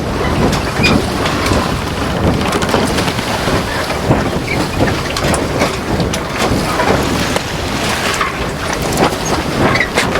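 A boat under way on a lake: loud, steady rushing wind and water noise, with wind buffeting the microphone throughout.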